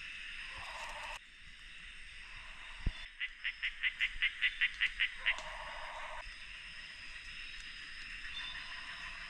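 Rainforest wildlife chorus: a steady high-pitched insect drone, with a rapid run of about a dozen chirps that grow louder a few seconds in, short lower buzzing calls near the start, middle and end, and a single sharp click just before the chirps.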